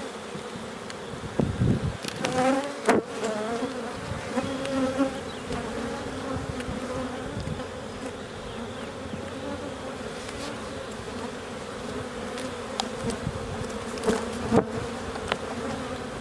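A swarm of Carniolan honey bees buzzing in a steady hum around an opened hive, a colony the beekeeper calls a little aggressive. A few short knocks sound near the start and again near the end.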